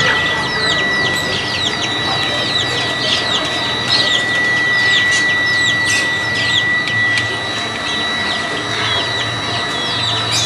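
Many small birds chirping at once, a dense stream of short falling chirps, over a steady high-pitched tone and a low background rumble.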